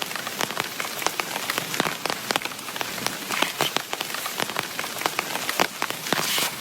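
Heavy rain falling, a steady hiss with many close raindrops striking sharply and irregularly.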